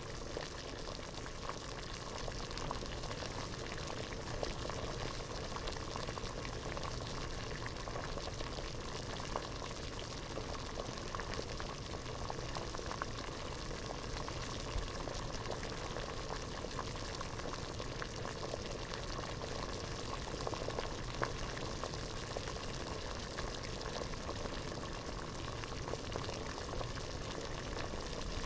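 Water boiling hard in a pot: a steady bubbling with many small pops throughout.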